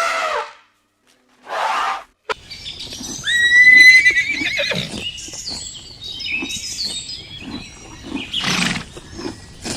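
Horse neighing: one loud, quavering whinny about three seconds in, followed by shorter calls and a noisy burst near the end. Before it come two short calls from another animal, cut apart by silence.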